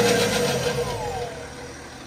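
BMW X5 30d's straight-six diesel engine with its revs falling back after a blip, a fast metallic rattle riding over it and fading as the revs drop. The uploader takes the rattle for a failing timing chain.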